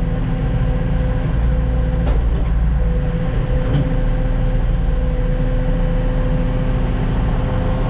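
Diesel engine of a log-loading machine running steadily under load, with a steady whine over the rumble and a few faint knocks about two and four seconds in.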